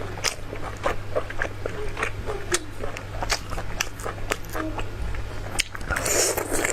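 Close-miked chewing and biting of food: a string of small wet mouth clicks and smacks, with a louder, noisier stretch near the end.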